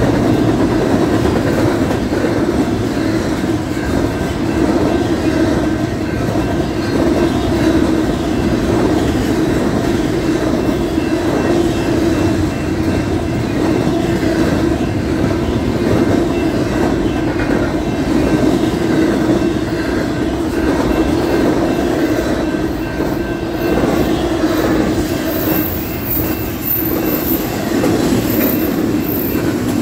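Union Pacific double-stack intermodal freight train rolling past close by: a steady rumble and clatter of the well cars' wheels on the rails, with brief high-pitched squeals near the end.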